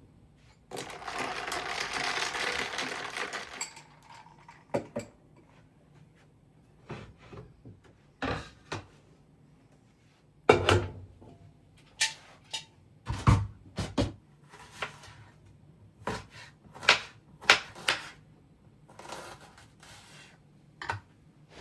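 Kitchen handling sounds: a few seconds of running tap water near the start, then a long irregular run of clicks, clinks and knocks as dishes, utensils and cupboards are handled.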